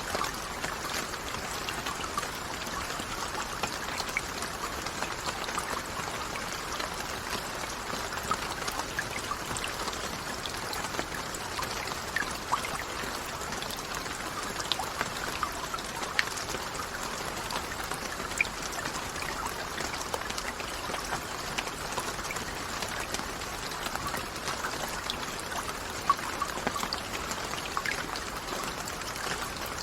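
Steady rain, an even hiss with many separate drops ticking and pattering on a surface.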